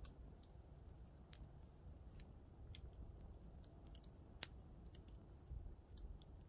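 Wood campfire crackling faintly: scattered small snaps and pops, with one sharper pop about four and a half seconds in.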